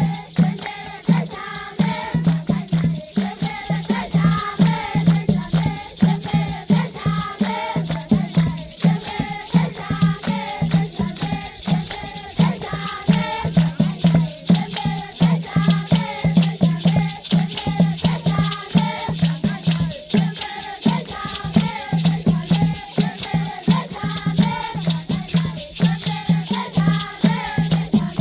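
A group of children singing a traditional African rain-dance song, with hand rattles shaken in a fast, steady rhythm.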